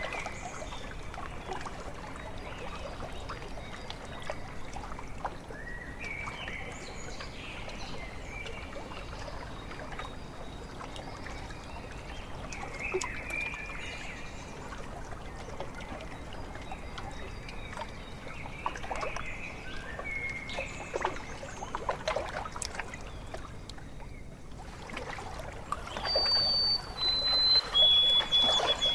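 Lakeside ambience: water lapping and trickling at the shore, with birds calling now and then. Near the end the water grows louder and a bird gives three clear whistled notes, each lower than the last.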